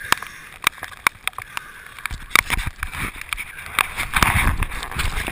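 Rain falling on the choppy sea, with an even hiss and many irregular sharp ticks of drops and water striking an action camera's waterproof housing at the surface. Water sloshes and buffets against the camera for a moment about four seconds in.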